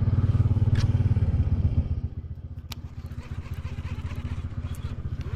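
Boat engine running with an even, fast firing beat. It runs loud for about two seconds, then is throttled back and carries on more quietly at a slower idle.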